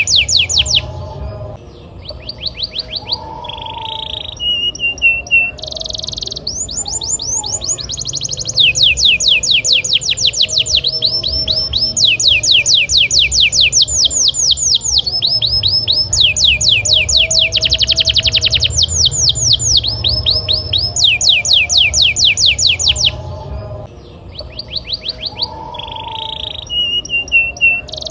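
Domestic canary singing a long, continuous song of fast trills and rolls: runs of rapid, evenly repeated downward-sweeping notes that switch to a new pattern every second or two. The song dips briefly about two seconds in and again near the end. A steady low hum sits underneath.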